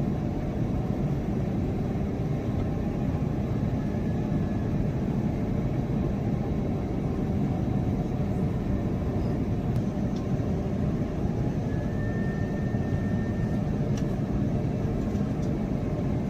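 Steady roar of engine and airflow noise inside the cabin of an Airbus A350 airliner.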